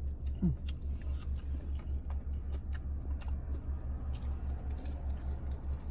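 Biting into and chewing a fried, potato-coated Korean corn dog, with scattered crisp crunching clicks, over a steady low pulsing hum.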